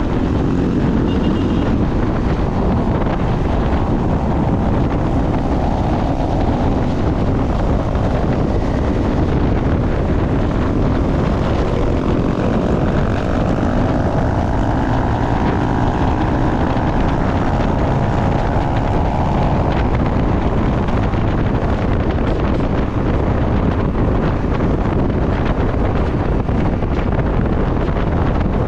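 Wind buffeting the microphone on a moving motorcycle, with engine noise underneath. From about twelve to twenty seconds in, an engine tone rises in pitch and holds before fading back into the wind.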